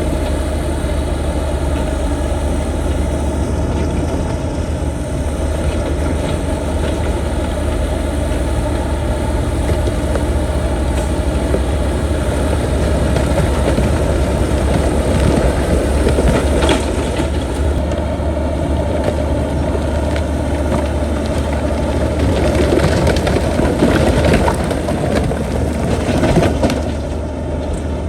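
Heavy bulldozer diesel engine running steadily under load, with rock crunching and scraping, the crunches heavier in the second half.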